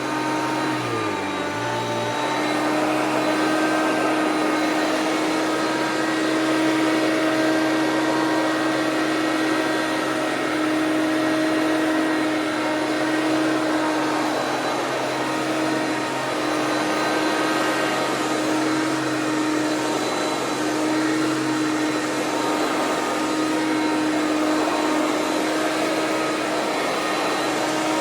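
Hoover PowerMax bagged upright vacuum cleaner running steadily, a constant motor hum over a rush of airflow hiss. In the first couple of seconds its low hum dips in pitch, then it holds level.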